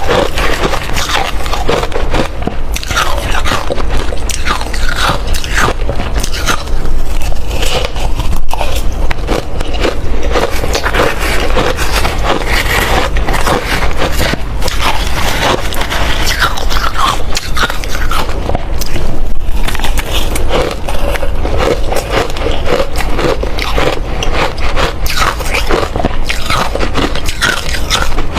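Ice being bitten and chewed close to the microphone: loud, dense, irregular crunching and cracking with no pauses.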